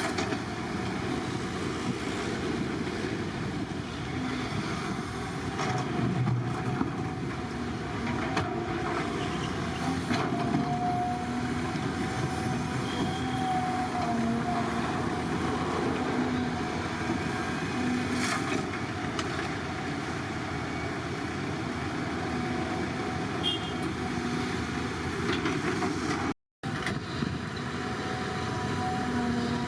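Heavy diesel construction machinery running steadily at a road-building site, with a split-second break in the sound near the end.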